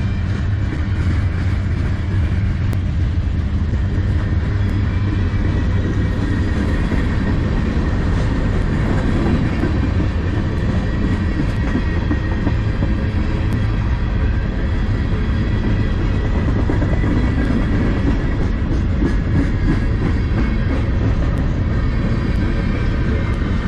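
Freight cars of a manifest train rolling past: steel wheels on the rails making a steady rolling noise with light clicking.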